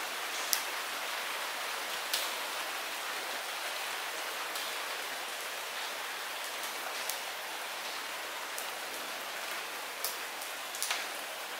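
Light rain falling steadily, a soft even hiss with scattered sharper drips and ticks of drops striking nearby surfaces.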